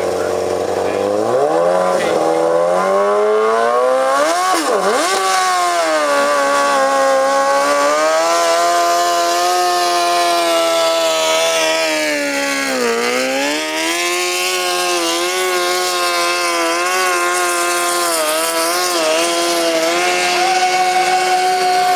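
Modified lawn tractor engine revving up and running loud at high revs under the load of a pull. The revs dip sharply for a moment about five seconds in and sag again around thirteen seconds before holding steady.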